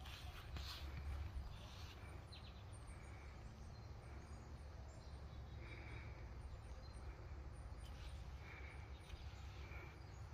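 Faint outdoor backyard ambience: a steady low rumble with short bird chirps every couple of seconds.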